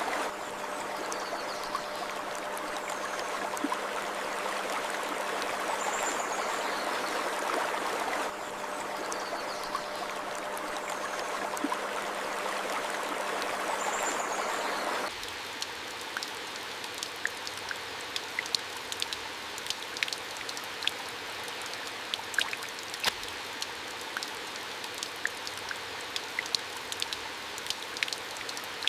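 Running stream water with a few faint bird chirps; about halfway through it switches abruptly to quieter flowing water with many scattered drips.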